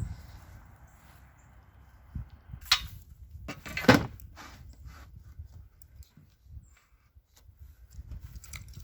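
A few sharp knocks, the loudest about four seconds in, among light clicks and low handling noise.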